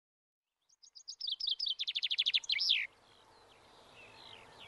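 A songbird sings one short phrase: a run of quick high notes that speeds up into a trill and ends in a falling flourish.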